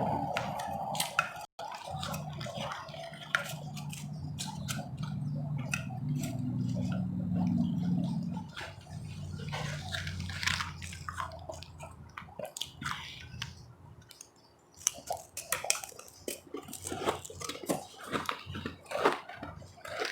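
Close-up chewing of frozen ice: soft, wet chewing at first, then from about 15 seconds in a dense run of sharp crunching as hard ice is bitten and broken between the teeth.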